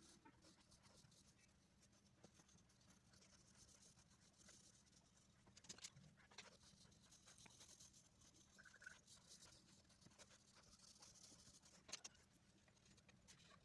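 Faint scratching of a pencil drawing on paper, with a few light taps.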